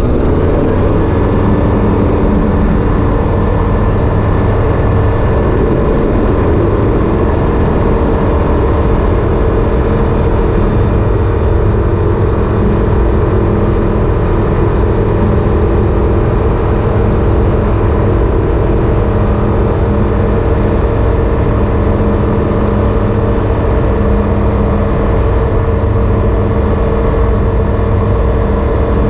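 Evektor EuroStar EV-97 ultralight's Rotax four-cylinder engine and propeller running steadily at power, the engine note shifting once about a second in.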